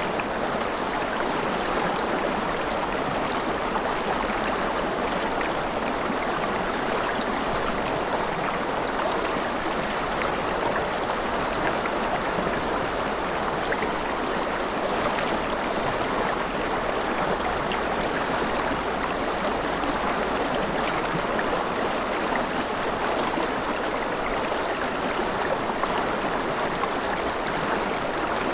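River water flowing and splashing, a steady even rush with fine bubbling and gurgling.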